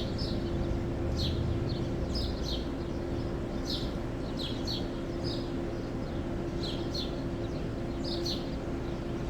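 Small birds chirping: short, falling high chirps in twos and threes, repeating about every second, over a steady low hum.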